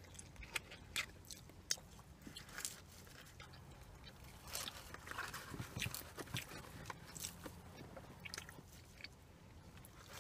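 Faint, close chewing and biting of food, with irregular small crunches and clicks, over a low steady hum.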